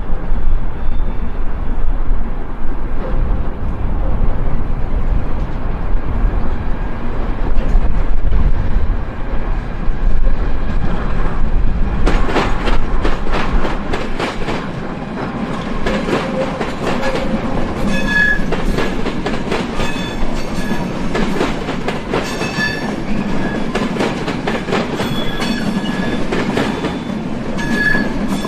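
A locomotive-hauled train rolling past on the track, a low rumble at first, then wheels clicking rapidly over rail joints from about halfway in, with short high-pitched wheel squeals again and again near the end.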